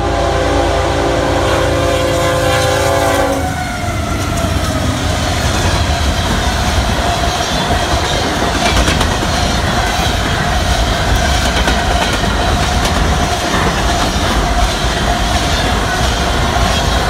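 A freight locomotive's air horn blows one long multi-tone blast that cuts off about three and a half seconds in. Then the empty covered hopper cars of a fast unit grain train run past close by with a steady loud rumble of wheels on rail.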